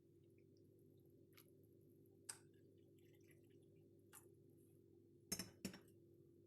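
Faint steady low hum with a few sharp clicks or taps scattered through it, the loudest two close together about five seconds in.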